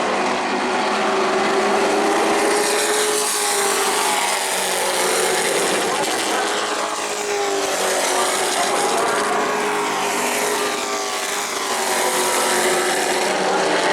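A pack of Pro Truck race trucks running laps at speed, several engines at once, their pitches rising and falling as the trucks go past.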